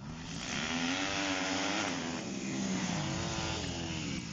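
Motocross motorcycles racing past close by, their engines revving so the pitch rises and falls twice.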